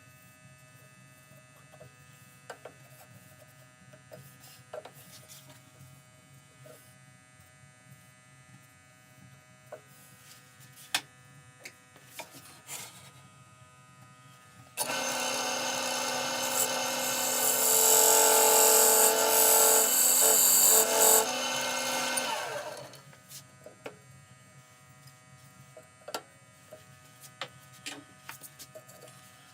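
An electric power tool starts suddenly about halfway through and runs steadily for about eight seconds, with a strong hiss added while it is under way, then winds down. Before it there is only faint hum and a few small clicks.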